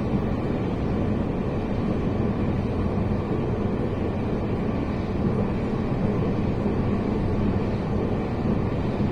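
Steady rumble of a passenger train running, heard from inside the carriage.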